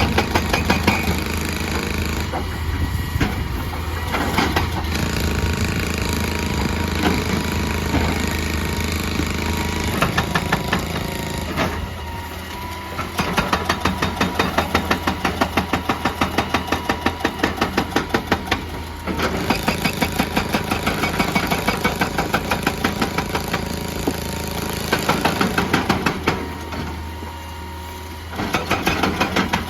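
Excavator diesel engine running steadily, with a hydraulic rock breaker hammering in several bursts of rapid, evenly spaced blows. The longest burst lasts about six seconds, midway through.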